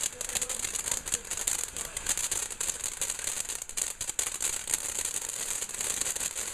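Bonfire burning with a dense, rapid crackle and a steady high hiss.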